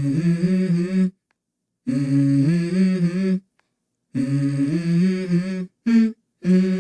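Background music: a voice humming the same short melodic phrase about four times, each about a second and a half long, with a brief dead silence between phrases.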